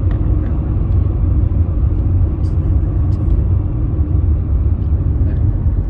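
Steady low rumble of a car driving along the road, heard from inside the cabin, with a few faint ticks over it.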